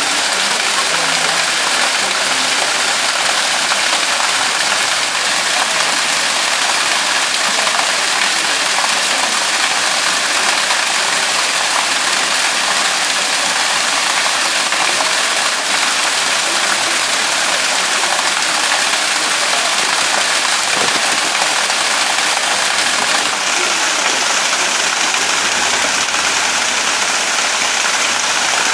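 Steady rush of water falling and splashing at a desert spring running after the rains.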